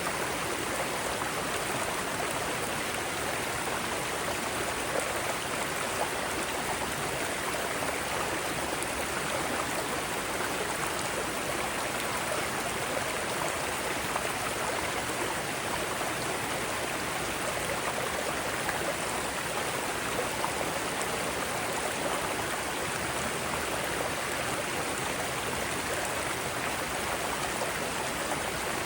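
Mountain stream flowing over rocks: a steady rush of water with small splashes and gurgles.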